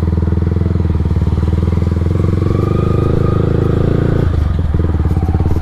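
Yamaha R15 V3's single-cylinder engine running through an aftermarket Akrapovic exhaust, a steady pulsing exhaust note that dips briefly about four seconds in.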